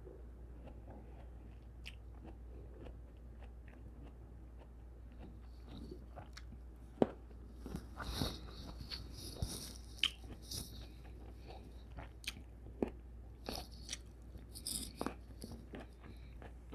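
Close-up chewing of fresh grapes: wet crunches and mouth clicks. It is fairly quiet for the first few seconds, then the crunching starts about six seconds in and comes in irregular bursts to the end.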